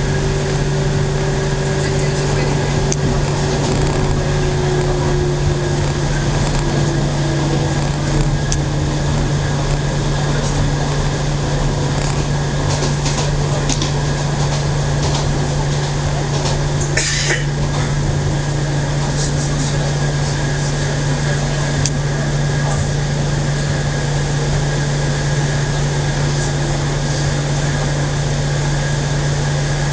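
Local electric train running, heard from inside the carriage: a steady low hum over rail and running noise, with a motor whine that slides down in pitch over the first several seconds. A short hiss breaks in briefly about two-thirds of the way through.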